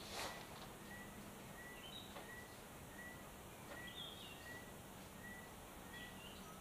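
Faint bird calls: a short high note repeated evenly about every half second, with a few higher chirps in between. A single sharp click sounds just after the start.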